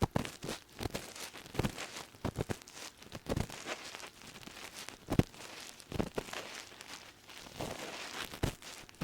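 Ear pick scraping and rubbing deep inside an ear, heard very close up: an uneven run of crackly scratches and small clicks, with one sharper click about five seconds in.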